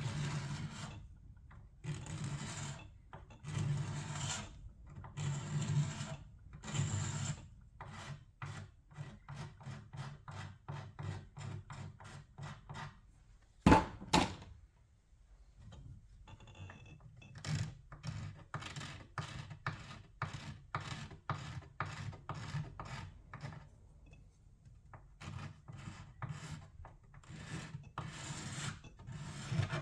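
Old paint and finish being worked off by hand, with rasping rubbing strokes. Slow long strokes about one a second at first, then quick short strokes several a second. About halfway through there is a sharp knock, then more quick strokes, and longer strokes again near the end.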